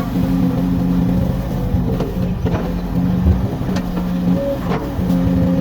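Komatsu excavator's diesel engine running steadily at working revs, its pitch and level dipping briefly a few times, with a few short knocks.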